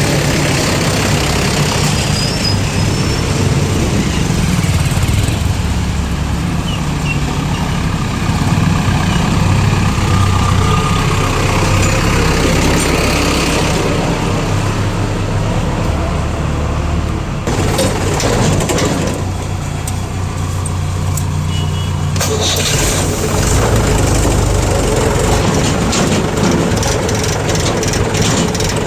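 Tractor engine running steadily, its low hum shifting in pitch a few times.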